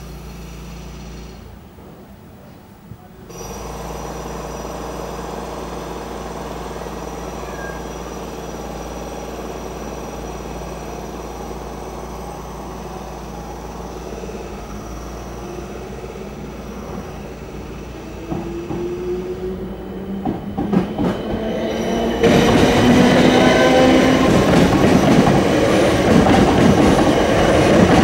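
Electric multiple-unit passenger train approaching, growing louder from about 18 seconds in, then passing over the level crossing from about 22 seconds in with loud wheel rumble and rapid clatter over the track.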